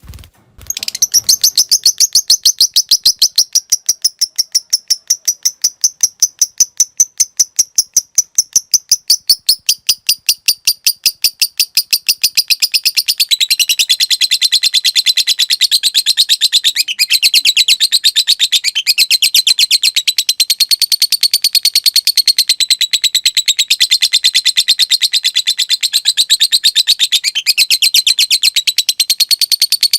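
Lovebird calling: a fast run of sharp, evenly repeated chirps, about four a second (the 'ngetik' ticking), which at about the middle turns into a dense, unbroken high chatter (the long 'ngekek' trill).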